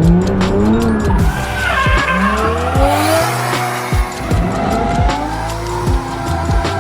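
Single-turbo Toyota Chaser JZX100 drift car's engine revving up and dropping back over and over as it drifts, with tyres squealing.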